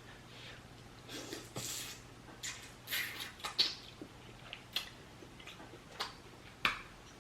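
Close-miked mukbang eating sounds: a string of irregular soft smacks and sharp clicks from chewing seafood, with no steady rhythm.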